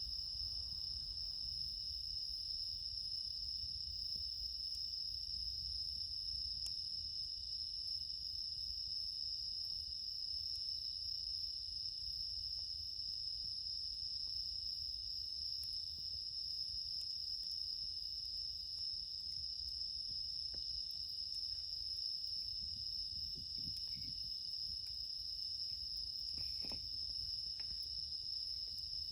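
Crickets singing in a steady chorus, a constant high-pitched ringing. A few faint crackles from a campfire come near the end.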